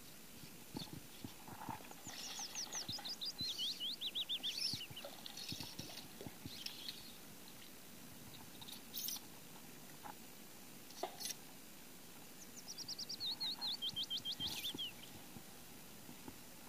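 A small bird singing twice: each song is a quick run of high chirps that steps down in pitch over two to three seconds. A few sharp clicks sound between the two songs.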